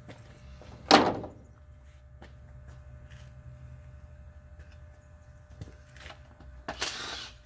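A sharp clunk of something being set down or dropped about a second in, then a brief scraping, rustling noise near the end, with faint clicks between.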